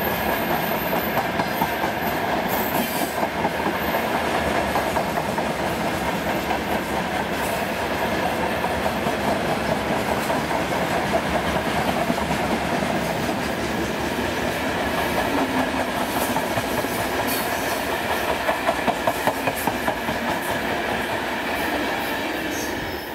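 Freight train's tank cars and open wagons rolling past close by, steel wheels knocking over the rail joints in a steady clickety-clack over a continuous rolling rumble. The last wagon goes by near the end and the sound eases slightly.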